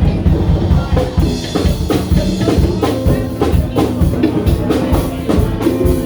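A band playing music: a drum kit keeps a steady beat of regular hits under held notes from the other instruments.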